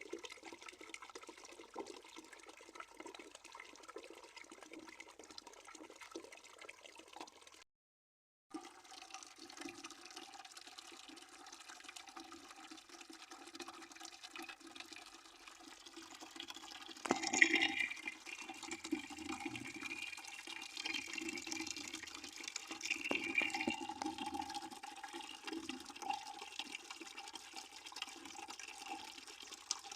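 Water running steadily from a tap into a bucket as it fills, with a few steady tones in the splashing. About halfway through, a sharp knock starts a louder stretch of splashing that lasts several seconds; the sound also cuts out completely for under a second early on.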